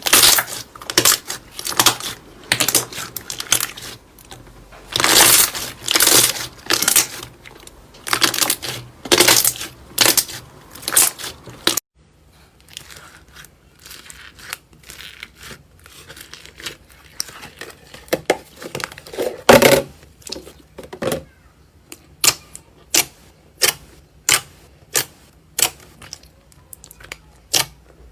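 Slime being pressed and squeezed by hand, making repeated crackling, squelching pops. About twelve seconds in the sound changes abruptly to quieter, sharper clicks at roughly one a second.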